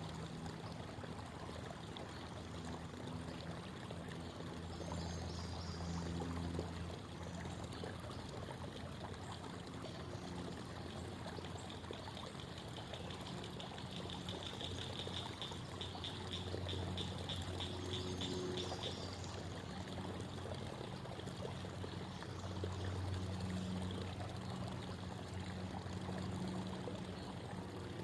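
Creek water babbling and trickling over rocks in a steady rush. A faint, fast, high trill comes in past the middle and fades after several seconds.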